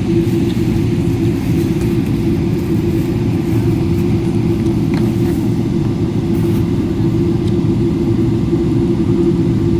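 Steady, loud cabin noise inside a Boeing 777-300ER jet airliner: a continuous low rumble of the engines and the airflow over the fuselage.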